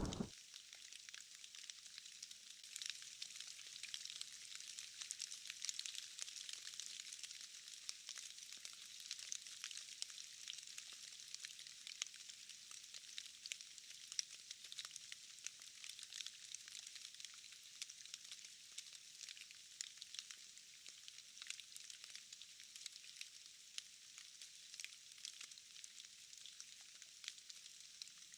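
Faint light rain: a soft, even hiss with many small drops ticking throughout.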